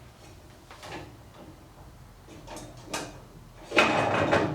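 Small metal parts and hand tools being handled during brake caliper and wheel assembly. A few light clicks are followed near the end by a louder clatter lasting under a second.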